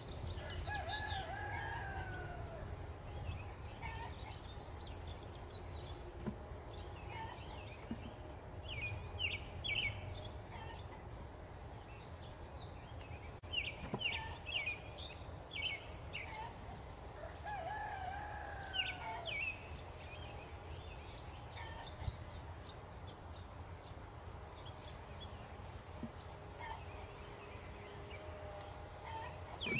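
A rooster crowing twice, once near the start and again about 18 seconds in, each crow an arching call of about two seconds. Small birds chirp now and then in between, over a steady low rumble.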